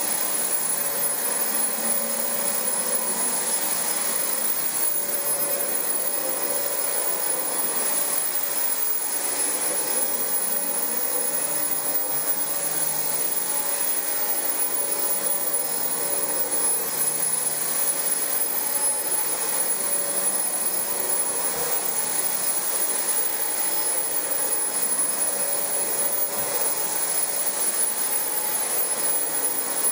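Dyson DC25 upright vacuum cleaner running steadily as it is pushed over carpet: a constant rush of motor and suction with a thin high whine on top.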